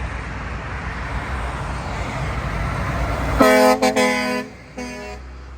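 Kenworth truck going by with a steady rush of engine and tyre noise, then sounding its horn: a loud blast broken twice, about three and a half seconds in, and a short toot near the end.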